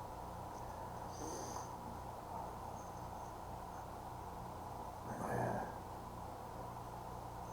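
Quiet room tone with a steady low electrical hum. A brief high-pitched noise comes about a second in, and a louder short noise about five seconds in.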